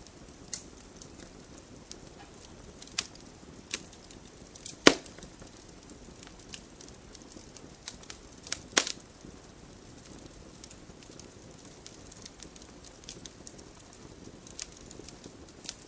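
Wood fire burning in a fireplace: a soft steady hiss of flames with scattered sharp crackles and pops, two louder pops about five and nine seconds in.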